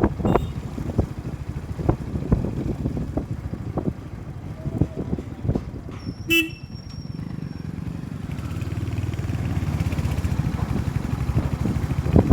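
Motorcycle engine running while riding, with bumps and knocks from the road. A vehicle horn honks briefly about six seconds in, and the engine note grows steadier and gradually louder from about eight seconds.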